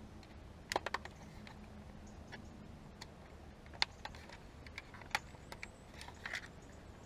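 Small sharp plastic clicks and snaps from a car window master switch being taken apart by hand: a quick run of three about a second in, then single clicks scattered through the rest.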